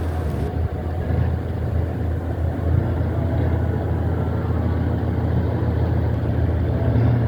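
A heavy engine running steadily with a low rumble, its note thickening and growing louder near the end.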